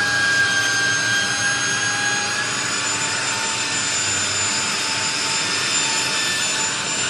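A woodworking power tool running steadily with a high whine that shifts slightly in pitch partway through.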